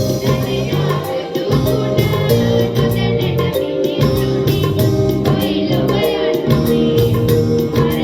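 A group of voices singing a Sinhala Buddhist devotional song over instrumental accompaniment with a steady beat.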